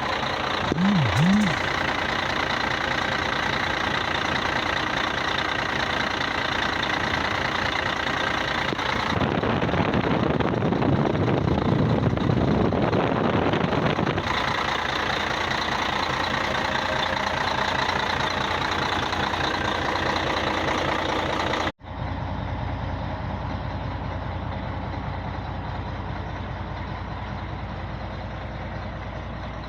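Scania 113 truck's diesel engine running steadily at idle. About nine seconds in, it grows rougher and louder for around five seconds. Near the end it breaks off for an instant and resumes duller.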